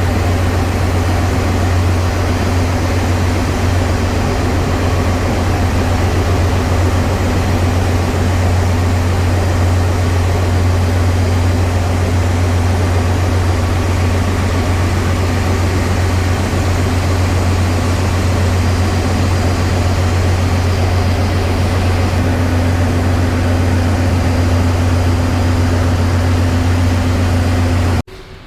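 Ship's engine-room machinery running: a loud, steady drone with a strong low hum and a few steady tones, cutting off suddenly near the end.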